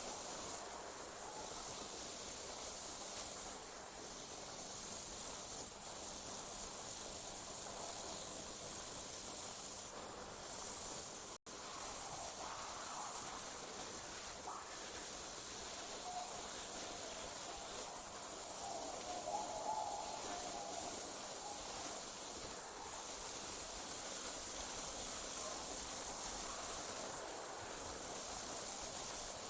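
Night insects trilling in a steady, very high-pitched drone that drops out for a moment every few seconds.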